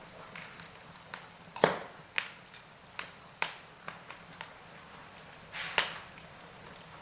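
Wood fire crackling in a fireplace: sharp, irregular pops and snaps over a faint hiss, the loudest about a second and a half in and another near the end.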